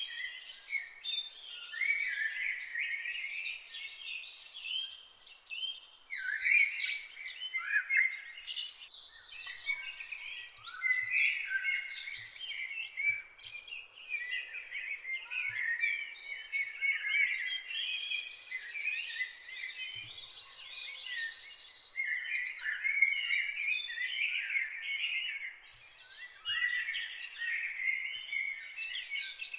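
A dense morning chorus of many songbirds singing at once: overlapping high chirps, whistles and trills, without a pause.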